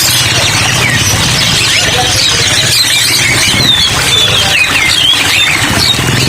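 Many caged songbirds chirping and squeaking at once, a dense overlapping chorus of short sliding calls over a steady hiss and a low hum.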